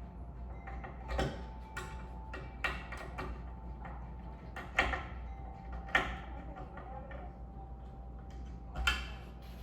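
Scattered sharp clicks and light knocks of small hardware and tools being handled during a ceiling fan installation, about five over the stretch, the loudest about five and six seconds in, over a steady low hum.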